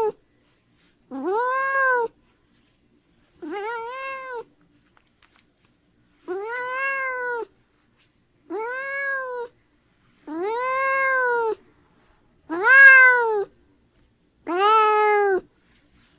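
Domestic cat meowing over and over: seven separate meows, each about a second long, rising and then falling in pitch, spaced about two seconds apart. The one about thirteen seconds in is the loudest.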